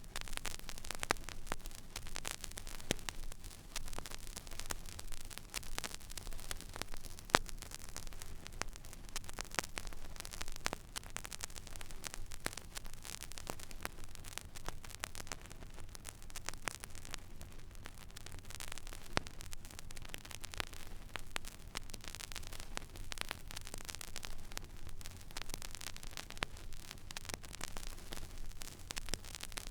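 Record-player stylus riding an empty vinyl groove: steady surface hiss with frequent small crackles and pops over a low hum, and one louder pop about seven seconds in.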